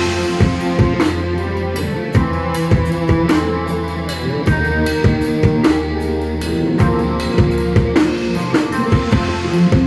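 A band playing instrumentally, with drum kit (kick and snare) keeping a steady beat under sustained bass notes and chords.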